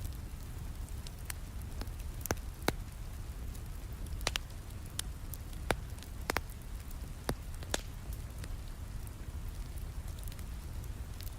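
Steady rain with a low rumble, over which a wood fire in a fireplace crackles with irregular sharp pops, a few louder ones about two, four, and six seconds in.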